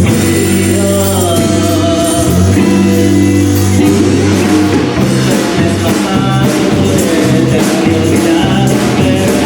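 A live band playing a song: a singer's voice over sustained bass notes and steady percussion.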